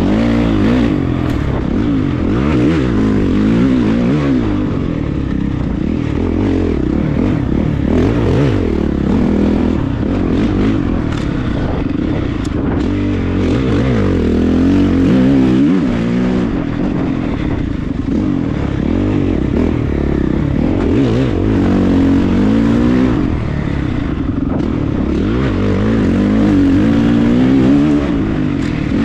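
Honda CRF450RX's single-cylinder four-stroke engine revving up and easing off over and over as the dirt bike is ridden around a track.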